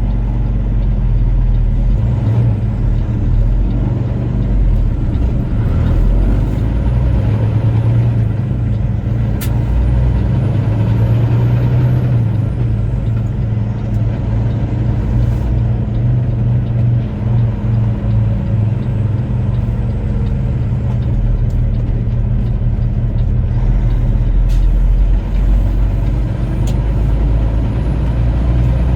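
Semi-truck's diesel engine running steadily under way, a low, even drone.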